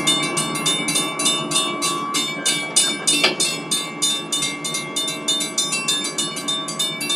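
Three-rail O-gauge model train rolling along its track, wheels clicking rapidly and steadily over the rail joints, several clicks a second, over a steady whine from the running gear. One sharper click stands out a little past three seconds in.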